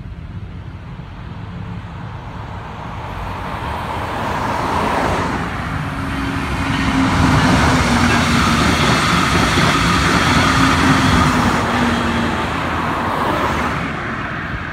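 Tri-Rail commuter train passing over a grade crossing: rumble and rail noise build up, stay loud with a steady hum while the cars go by, then ease off near the end.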